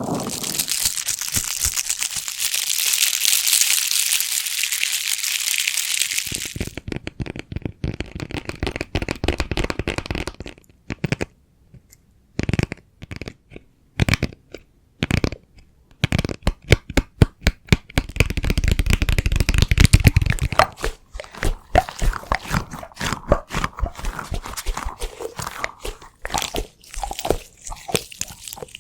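Close-miked ASMR trigger sounds: a dense, hissing crinkle for about the first six seconds, then a long run of irregular taps, clicks and crackles.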